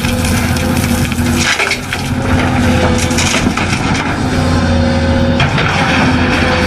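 Remote-control toy excavator's motor running with a steady whine that drops out briefly twice, over continuous crunching and crackling as material is pushed and scraped.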